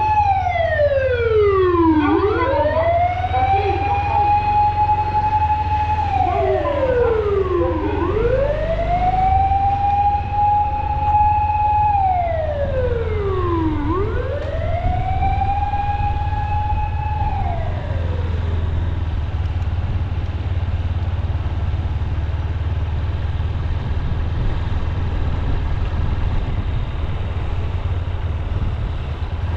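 An emergency vehicle's siren wailing, holding a high note, then sliding down and climbing back, about every six seconds, three times, before it fades out a little past halfway. Under it runs the steady low rumble of the Honda CB200X's single-cylinder engine on the move.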